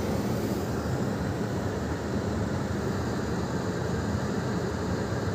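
Kia EV6 climate-control blower running steadily, pushing air out of the cabin vents as a constant rush; the air is coming out cold, with the heater not heating.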